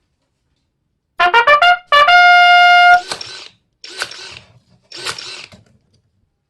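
A short trumpet fanfare: a run of four or five quick notes, then one loud held note. It is followed by three short noisy bursts, each with a sharp click.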